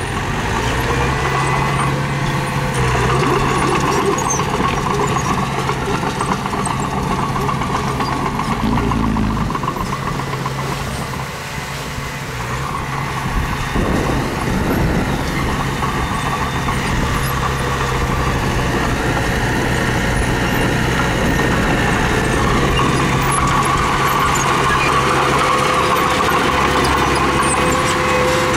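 Diesel engine of heavy earthmoving machinery running steadily, easing briefly about eleven seconds in, then picking up again.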